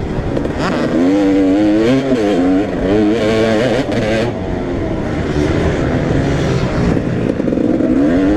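Motocross bike engines racing on the track, their pitch rising and falling as the throttles open and close. The revving is strongest from about one to four seconds in.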